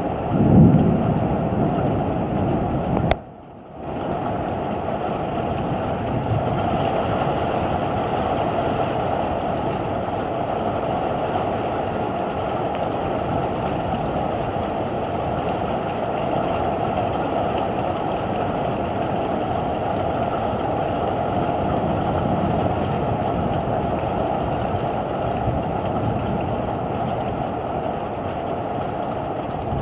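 Steady, heavy noise of a thunderstorm downpour and wind, with a low rumble in the first second. The sound cuts out abruptly about three seconds in and returns half a second later.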